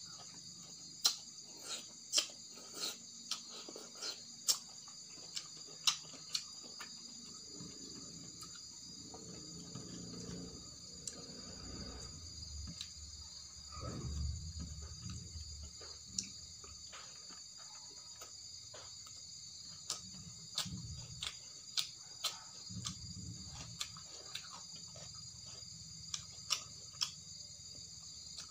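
Close-up eating sounds of boiled fiddlehead fern and rice eaten by hand: sharp crisp clicks and wet mouth smacks from biting and chewing, bunched near the start and again near the end, with softer chewing in between. A steady high insect chirring runs underneath.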